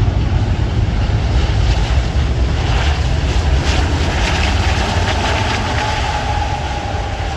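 Airbus A380 jet engines rumbling during landing, with wind buffeting the microphone. A faint steady whine comes in during the second half and sinks slightly in pitch.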